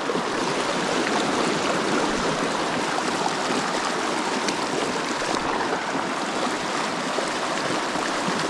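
Small mountain creek running steadily, an even rush of water.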